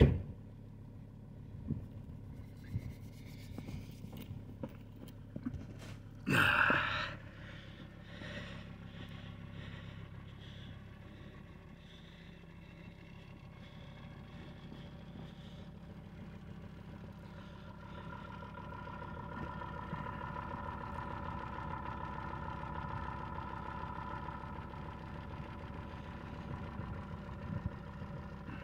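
Volvo S80 2.4 common-rail diesel idling steadily shortly after a cold start in freezing weather. There is a brief loud scraping noise about six seconds in, and a faint whine comes in past the middle.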